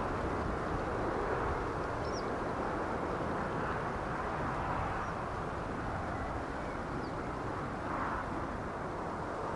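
Steady noise of a distant jet airliner's engines, with a few faint bird chirps.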